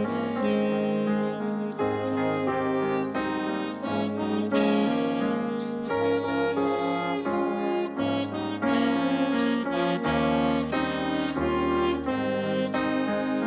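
A student orchestra playing, with wind and string instruments holding notes over a moving bass line.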